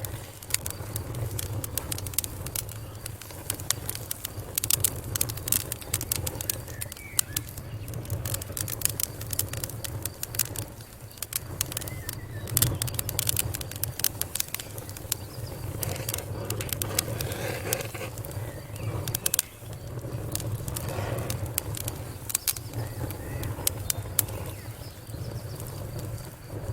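Wood fire burning in a fireplace: frequent irregular sharp crackles and pops over a low, steady rumble of the flames.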